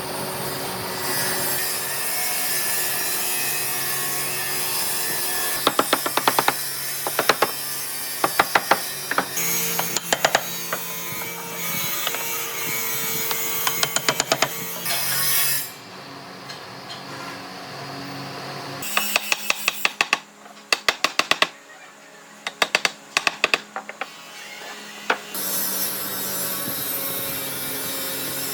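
Wood being worked by hand: a steady sawing or rubbing sound, broken by repeated quick runs of sharp taps several times a second, loudest in the middle to late part.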